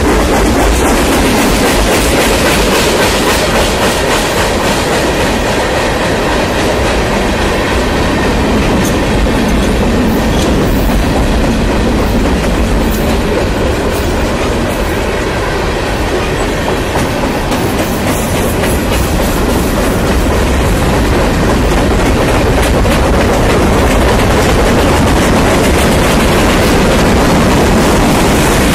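Freight cars of a long mixed freight train rolling past on the main line: a loud, steady rumble of steel wheels on rail, with many quick clicks as the wheels pass over the rail joints.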